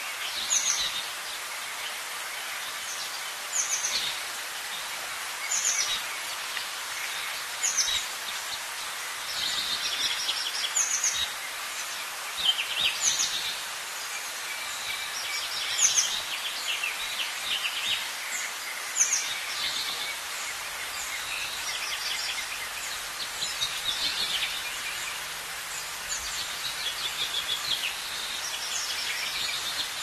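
Small birds chirping over a steady hiss, with a short high call repeated about every two seconds and bursts of quicker chirps between.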